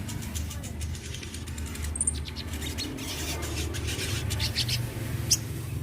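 Sunbird (sogon) giving short, high, thin chirps, one about two seconds in and a quick falling run of notes near the end, over a steady low hum.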